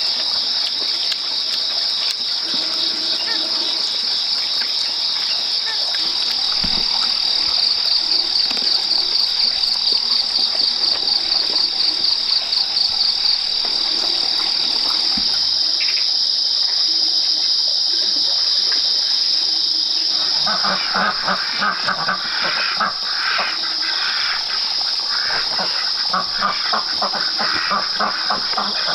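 Insects trilling: a loud, steady high buzz that pulses rhythmically for several seconds about a third of the way in. From about two-thirds in, a lower call with rapid repeated pulses joins it.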